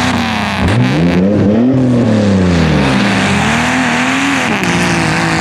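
Truck engine revving hard as it runs a tough-truck course: its pitch climbs steeply about a second in, falls away, then rises and falls again. A steady lower engine drone runs underneath.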